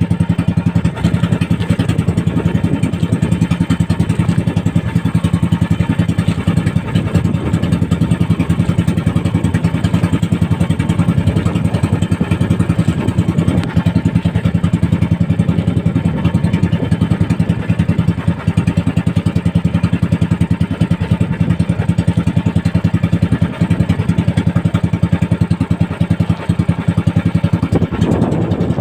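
Small single-cylinder boat engine running steadily at a constant speed, a low, fast-pulsing drone.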